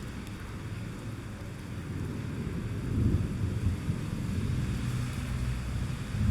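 Thunderstorm: a steady hiss of rain over a low rolling rumble of thunder that swells about three seconds in.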